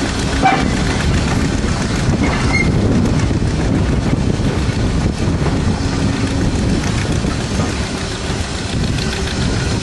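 Steam-hauled passenger carriage running along the track: a steady rumble of wheels on rail, with wind buffeting the microphone.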